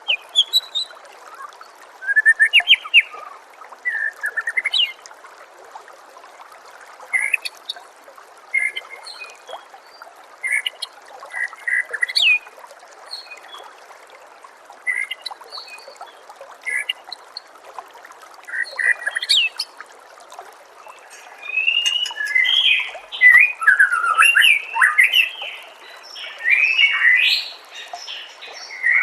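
White-rumped shama (murai batu) singing in short phrases every second or two, turning into a busier, denser run of song in the last few seconds. Beneath it, the steady trickle of running water.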